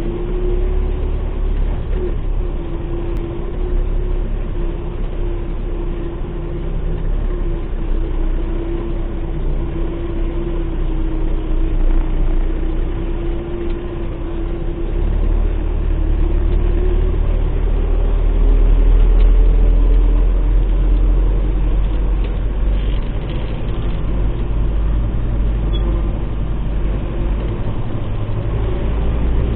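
MTZ-892 tractor's diesel engine running steadily under way, with a low rumble; its pitch and loudness rise a little past the middle.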